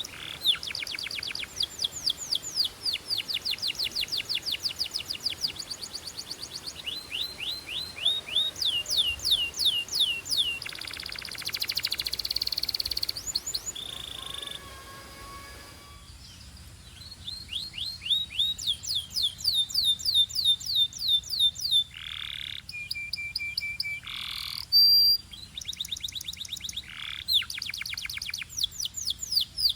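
Canary singing a long song of rapid trills, each a fast run of repeated sweeping notes that changes speed and pitch from tour to tour, with a brief buzzy stretch and a few short held whistles.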